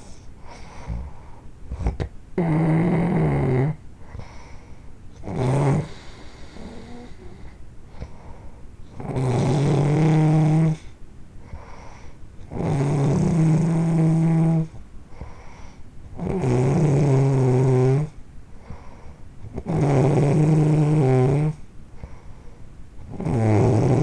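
Loud snoring: a long droning snore about every three and a half seconds, with quieter breaths between.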